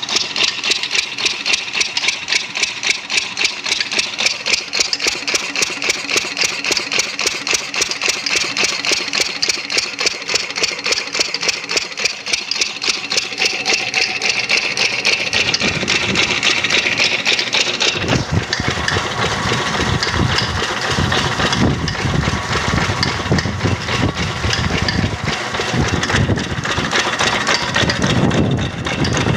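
An engine running with fast, even pulses. About eighteen seconds in the sound changes and becomes heavier and deeper.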